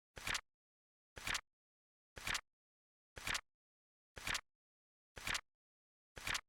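Flip-clock card-flip sound effect ticking off the seconds: a short double-edged clack once a second, seven times, with silence between.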